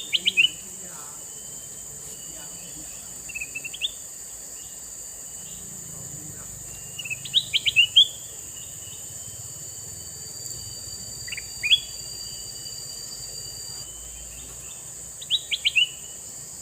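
Male kutilang mas bulbul calling in five short bursts of quick, sweeping notes, a few seconds apart, with the loudest burst near the middle. A steady high-pitched drone runs underneath throughout.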